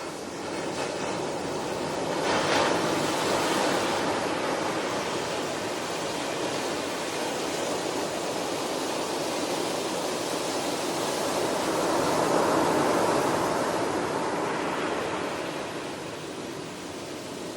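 Ocean waves washing onto a shore, the surf swelling and easing in slow surges, with two larger waves peaking about two seconds in and again near twelve seconds.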